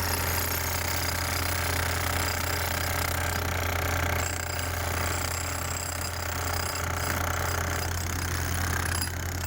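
Jackhammer hammering steadily in rapid, continuous strokes during road repair work.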